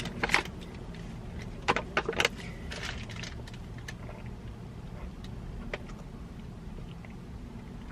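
Close-miked eating sounds of someone chewing a soft cream-filled green tea bread: scattered wet clicks and smacks, the loudest cluster about two seconds in. A low steady hum runs underneath.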